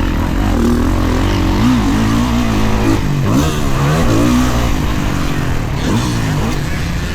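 Dirt bike engine running hard with the throttle worked on and off, its pitch rising and falling several times as the bike revs up and drops back.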